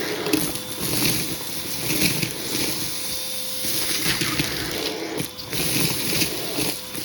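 Hoover vacuum cleaner running, its tool pushed back and forth over a shag rug, so the suction noise rises and falls about once a second over a steady motor hum.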